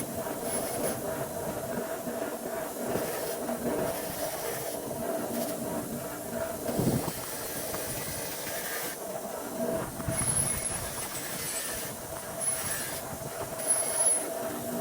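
A machine running steadily with a constant whine and hiss, with a few brief louder moments.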